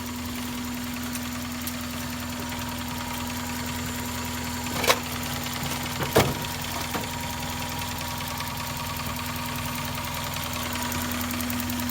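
Toyota 3S-FE 2.0-litre inline-four engine idling steadily. Two short, sharp knocks come about five and six seconds in.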